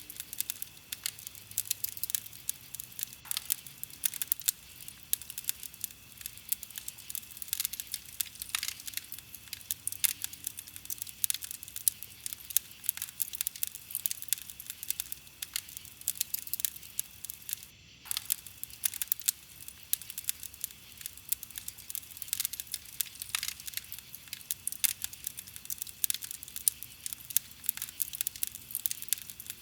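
Wood campfire crackling, a dense irregular stream of small sharp pops and snaps, with a brief break about two-thirds of the way through.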